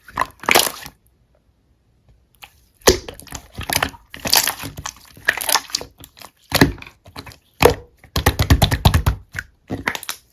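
Slime being pressed and worked by hand, giving irregular bursts of sharp clicks and pops, with a fast run of clicks about eight seconds in.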